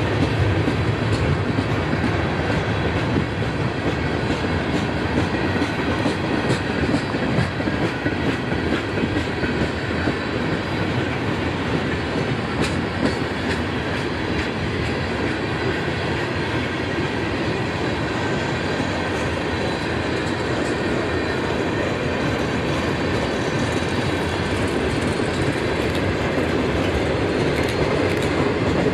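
CSX manifest freight train's tank cars and boxcars rolling past at steady speed: a continuous rumble and clatter of steel wheels on the rails.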